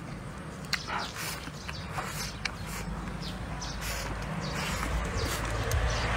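A person eating from a bowl with chopsticks: close chewing and mouth sounds with many short, sharp clicks and smacks, over a low rumble that grows louder near the end.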